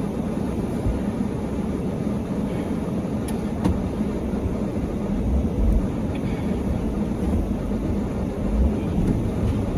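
Car engine running steadily under throttle while the car, stuck in deep snow, fails to move.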